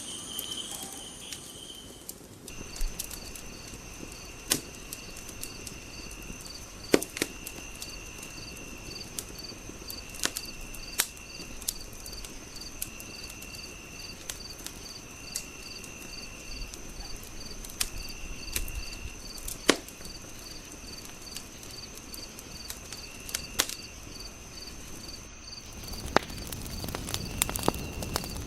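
Wood fire crackling with sharp, scattered pops, layered over night insects: crickets chirping in a steady pulsing rhythm with other insects trilling on and off. Near the end a louder rushing of the fire comes in.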